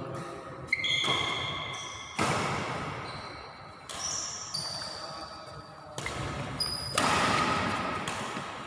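Badminton rackets striking a shuttlecock in a rally, about five sharp hits that echo in the hall, with short high-pitched squeaks of shoes on the court floor between them.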